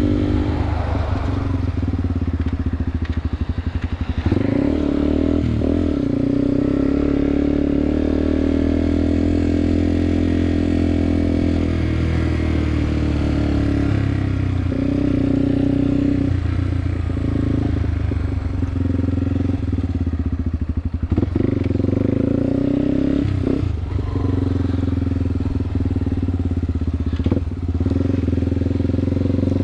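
Yamaha TW200's single-cylinder four-stroke engine running while the bike is ridden, its note stepping up and down with several brief breaks.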